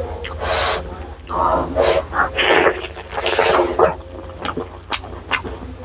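Close-miked eating sounds: a person chewing, smacking and slurping, in several breathy bursts, then a run of short wet mouth clicks over the last couple of seconds. A steady low hum lies underneath.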